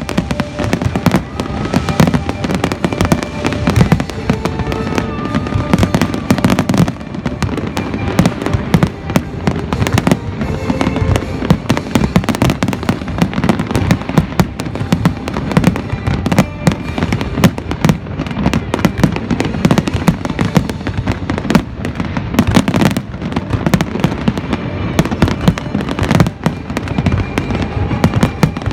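Aerial firework shells bursting in rapid succession: a dense, near-continuous stream of bangs and crackling with no real pause.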